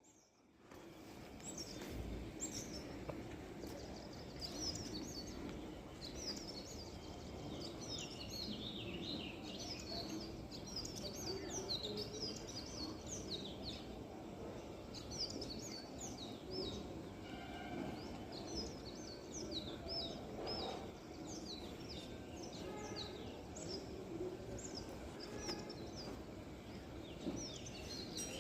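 Songbirds chirping and twittering in quick, high, short notes, many calls overlapping, over a steady low background noise.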